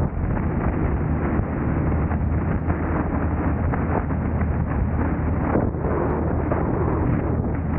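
Steady road and engine noise of a car driving, with wind buffeting the camera microphone in irregular crackles.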